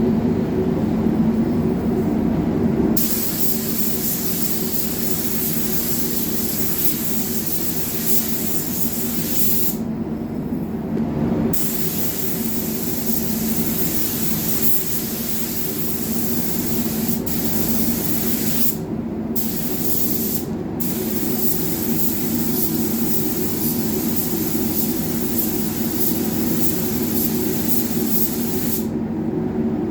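Compressed-air paint spray gun spraying a coat of lacquer onto a car bumper: a steady hiss that starts about three seconds in and breaks off briefly three times when the trigger is let go. A steady low hum runs underneath.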